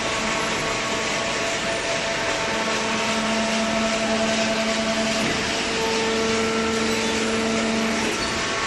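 Hydraulic cardboard baler running: a steady machine noise with a constant hum from its electric motor and hydraulic pump, whose tone shifts slightly about eight seconds in.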